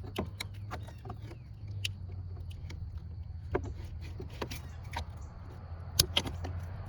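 Scattered metallic clicks and knocks of hand-tool work: hose clamp pliers gripping and sliding back spring clamps on radiator hoses, with a sharper knock about six seconds in, over a steady low hum.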